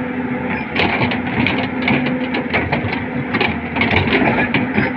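Excavator diesel engine running steadily, with a run of irregular metallic clanks and rattles starting about a second in.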